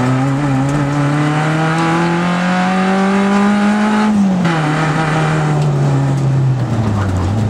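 Rally car engine heard from inside the cabin, the revs climbing steadily for about four seconds. The pitch then drops at once and sinks slowly toward the end as the car eases off.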